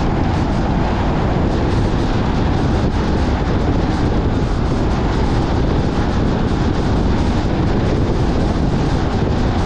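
Steady road and wind noise from a car driving at a constant speed, a dense low rumble without change.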